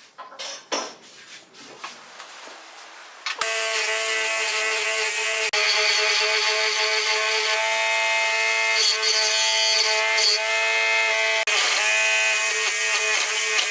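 Scattered clicks and knocks of tool handling, then about three seconds in a power tool starts abruptly and runs loud and steady with a high whine.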